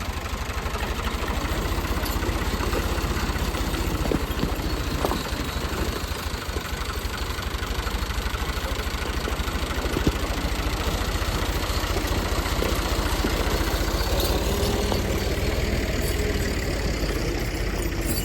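A car engine idling steadily under a constant rushing noise, with a few faint clicks.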